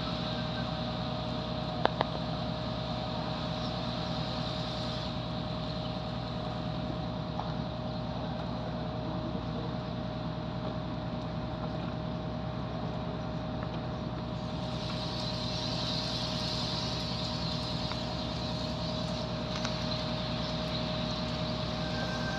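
A boat's engine running steadily, an even low hum with a constant whine above it, under a hiss that fades for a while mid-way and comes back. Two short knocks about two seconds in.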